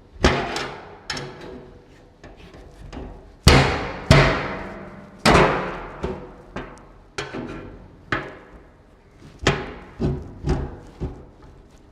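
Irregular hammer blows on an aluminum fuel tank, each strike ringing hollow through the tank, as a part is knocked into place inside it; a cluster of the heaviest blows comes about four to five seconds in.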